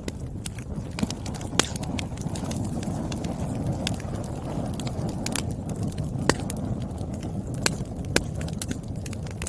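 Wood fire burning with a steady low rush of flame and frequent irregular crackles from the logs, with a handful of sharper, louder pops.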